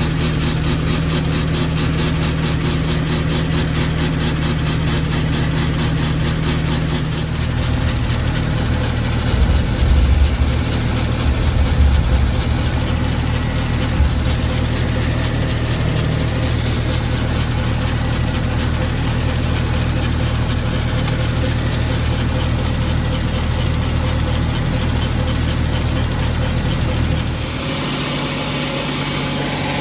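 1996 Jeep Cherokee XJ engine idling with the starting noise that the owner feels in the bellhousing and that survived repairs to the transmission, torque converter and flex plate; the owner wonders whether the starter is to blame. The engine's note shifts about a quarter of the way in, followed by a few louder low thumps.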